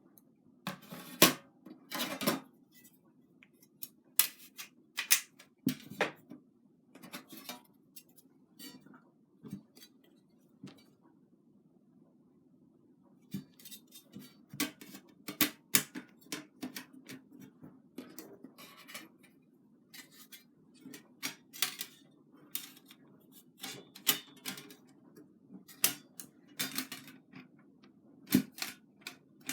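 Parts of a flat-pack fire pit made of 1 mm thick 430 stainless steel sheet being fitted together by hand: irregular metallic clicks and clacks, with a pause of a couple of seconds near the middle, over a faint steady hum.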